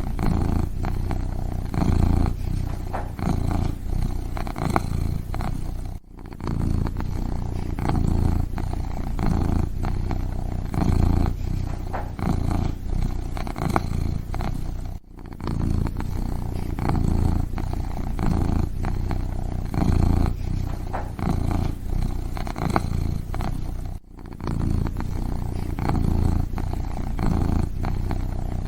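Kitten purring close up: a steady low rumble that swells and eases with each breath, broken by a brief gap about every nine seconds.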